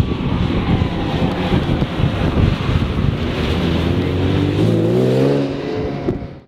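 Ferrari Testarossa's flat-12 engine driving past under power, its note rising in pitch as it accelerates over the last couple of seconds, then dropping away just before the end.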